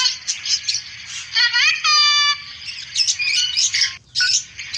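Birds chirping: many quick high chirps, with one pitched call about a second and a half in that rises and then holds a steady note, repeating the same call heard before and after.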